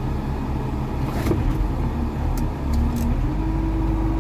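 Tractor engine running steadily, with a few sharp metal clicks and clanks while an implement is being pinned on.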